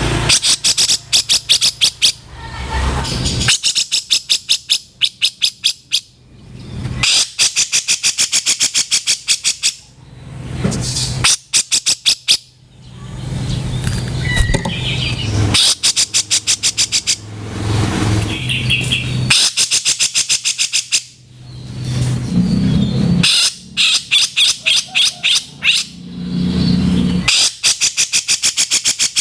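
Grey-cheeked bulbul (cucak jenggot) giving harsh, rattling calls: rapid strings of about ten strokes a second, each lasting a second or two, repeated over and over with rising hissy swells between them.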